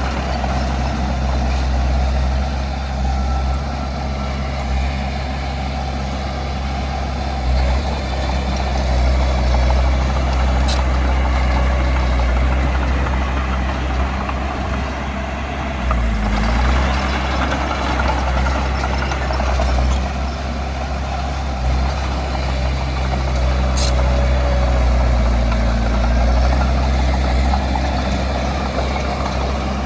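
Heavy diesel earthmoving machinery running: a deep, steady engine note that swells and eases as the load changes, with two brief sharp ticks far apart.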